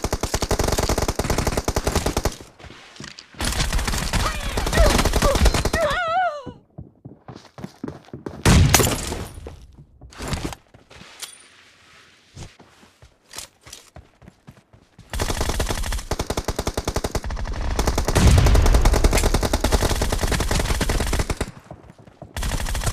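Video-game automatic gunfire in long rapid bursts separated by short lulls, with one louder, deeper bang about eight and a half seconds in.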